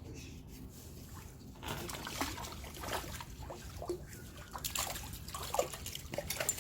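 Water splashing and sloshing in quick, irregular splashes, starting about two seconds in and growing busier near the end.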